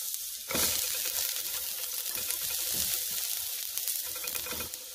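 Sliced garlic and ginger sizzling in hot oil in a pan as they are stir-fried; the sizzle jumps louder about half a second in.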